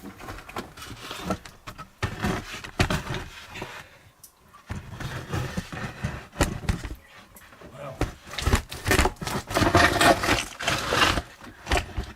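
Irregular scraping and knocking of handling noise, likely the camera rig rubbing and bumping as it is worked into the mine entrance. It is loudest and busiest near the end.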